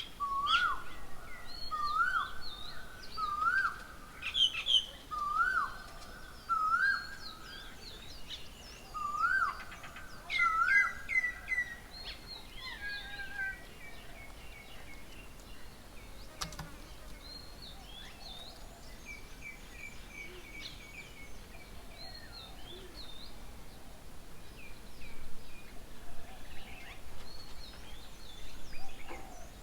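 Several birds calling: one repeats a rising-then-falling note about once a second through the first third, over many shorter, higher chirps from other birds, which thin out to occasional calls later on.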